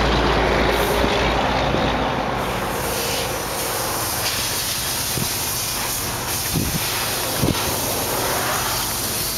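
Cadillac 4.6-litre Northstar V8 idling, heard from behind the car near its dual exhaust, under a steady hiss of wind on the microphone. A few soft knocks come in the second half.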